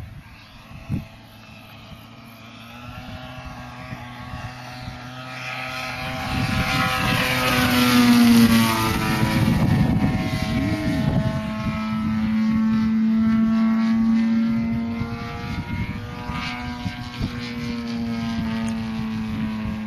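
50cc gasoline engine and propeller of an RC aerobatic airplane in flight. The note swells to its loudest about eight seconds in, dips and rises in pitch, then holds steady and eases off slightly near the end.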